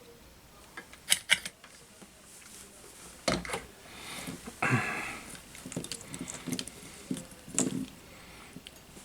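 Tools and small parts handled at a workbench during a drone frame repair: two sharp clicks about a second in, a knock, a short scrape or rustle around the middle, scattered light ticks and another knock near the end.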